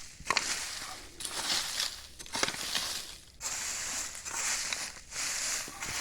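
A steel hoe scraping and dragging dry leaves and soil in repeated strokes, about one a second, with an occasional sharp click of the blade, while a firebreak is cleared.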